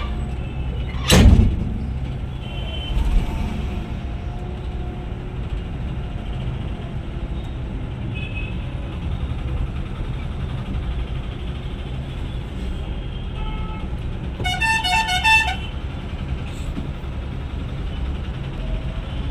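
Steady low rumble of a Scania coach's engine and road noise heard from inside the bus, with a sharp loud thump about a second in. About fifteen seconds in, a vehicle horn sounds a quick run of short toots.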